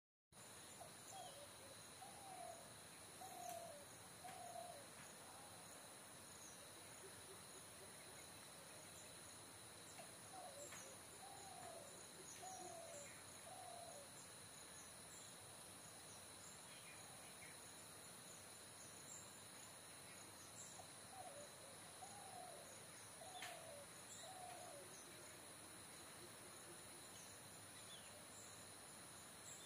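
Faint forest ambience: a bird hoots in a series of about five short calls, three times about ten seconds apart, over a steady high-pitched insect drone with scattered faint chirps.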